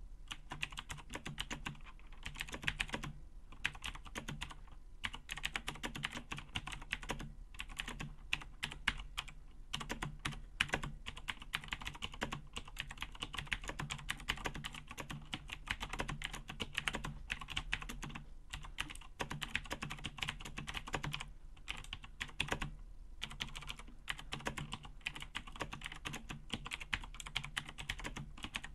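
Razer BlackWidow mechanical keyboard being typed on fast and continuously, a dense run of key clicks with a few short pauses.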